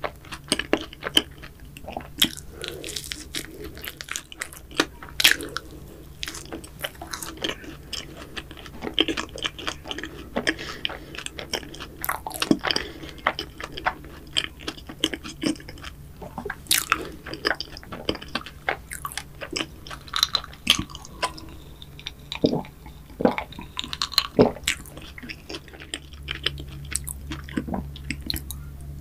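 Close-up chewing of a bite of cream-filled cookie choux: many small crunches and mouth clicks, thinning out near the end.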